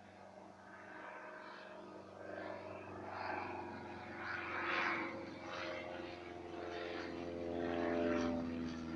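Piston engine and propeller of a Piper tow plane running at takeoff power, growing steadily louder as the aircraft approaches.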